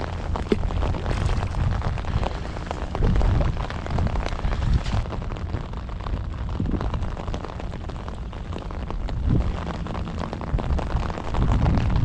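Rain pattering on an open umbrella and the sea surface, with many fine ticks over a heavy low rumble of wind buffeting the microphone in gusts.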